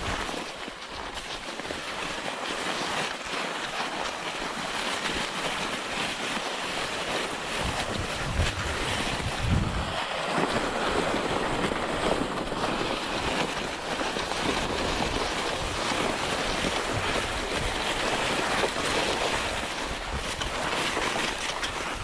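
Steady rushing noise of cross-country skiing: wind on the GoPro's microphone over skis sliding along the tracks, with a heavy low buffet of wind about nine to ten seconds in.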